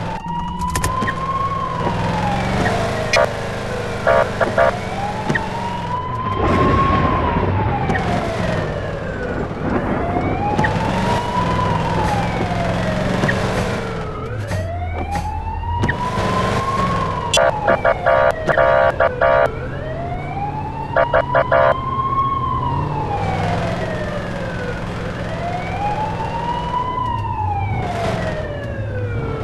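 Police car siren on a slow wail, rising and falling in pitch about every five seconds, with a few clusters of short rapid blasts cutting in, over the vehicle's low engine and road noise.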